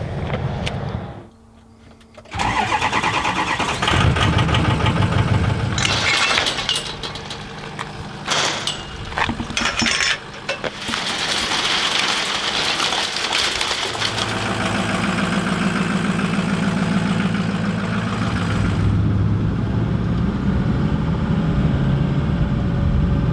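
A vehicle engine in a series of short cuts: starting and running, changing abruptly several times. About fourteen seconds in it settles into a steady drone, like an engine under way.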